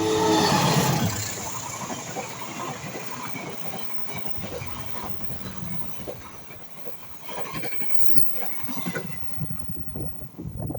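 KA Matarmaja passenger train passing close by, loudest in about the first second and a half as the locomotive goes past, then a run of wheel clicks as the carriages roll over the rail joints, slowly fading.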